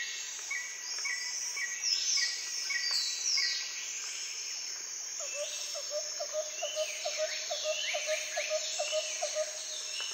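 A chorus of wild birds calling together: many short whistled calls sweeping up and down in pitch, with repeated short high notes in the first half. From about halfway, a fast run of lower, evenly spaced notes, about three or four a second, joins in.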